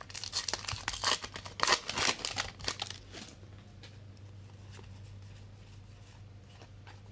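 Trading cards being handled and flipped through by hand: a quick run of crisp paper flicks and rustles for about three seconds, then only a few faint ones. A steady low hum runs underneath.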